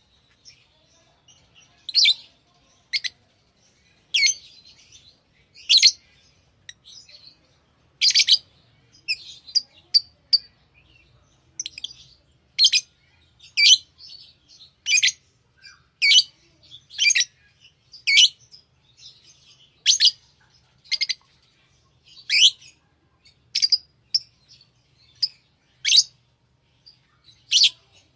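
Pet lovebirds chirping: short, sharp high calls about once a second, with softer twittering in between.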